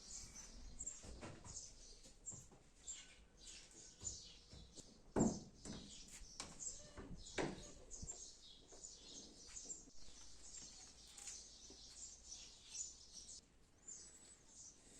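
Small birds chirping over and over, faint, with a few sharp knocks, the loudest about five seconds in.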